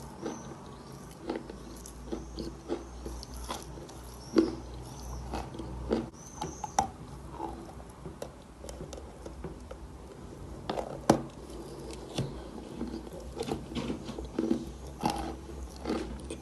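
Close-up crunching and chewing of chalk in the mouth: irregular crisp bites and crunches, a sharper one about four seconds in and another loud one about eleven seconds in.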